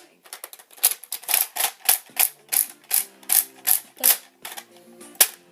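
Plastic clicks from a revolver-style Nerf Elite blaster's cylinder being turned round by hand, a dozen or so sharp clicks at about three a second.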